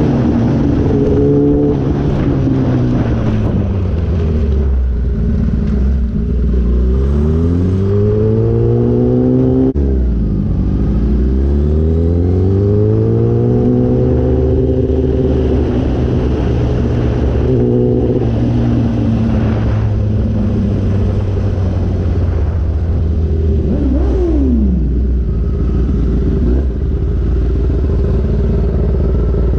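Motorcycle engine under way, its revs climbing and falling several times as the rider accelerates and shifts, with a sudden drop about ten seconds in, then running at a fairly steady pitch, under constant wind rush. A brief falling whine comes near the end.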